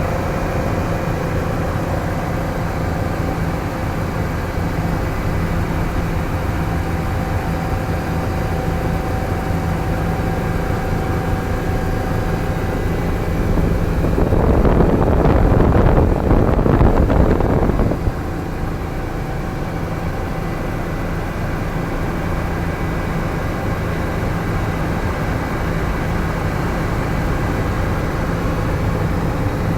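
Helicopter in flight: a steady engine and rotor drone. About halfway through, a louder rushing noise swells for about four seconds and then cuts off suddenly.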